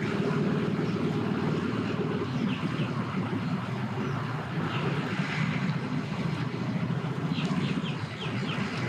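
Engine running steadily at the boat ramp, a low drone that eases slightly after about two seconds, with a few short high chirps over it.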